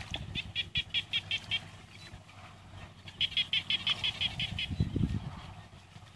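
An animal calling in two runs of rapid, evenly spaced high chirps, about six a second, each run lasting over a second. A low thump comes about five seconds in.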